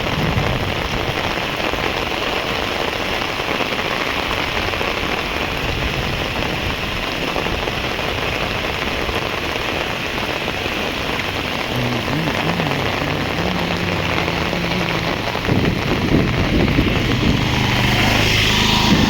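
Rain falling steadily. About twelve seconds in, a low droning hum joins it and grows louder near the end.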